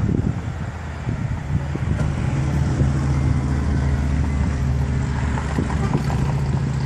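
A motor vehicle's engine running steadily, a low even hum, with some rumbling buffeting near the start.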